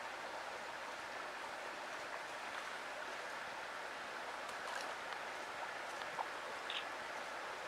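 Rushing river water, a steady, even hiss, with a few faint clicks and one short high chirp near the end.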